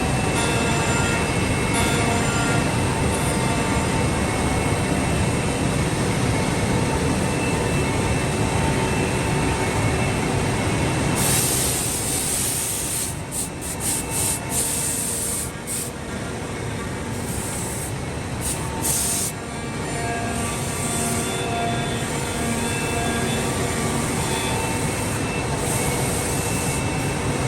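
A 5-axis CNC woodworking machining centre running, giving a steady machine noise with faint whining tones. About eleven seconds in, a louder hiss comes in, and the level dips briefly several times over the next few seconds.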